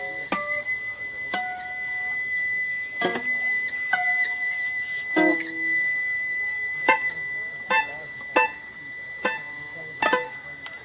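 Free-improvised music for violin and guitar: a high steady tone is held while about ten sharp plucked and struck notes ring out and die away, roughly one a second.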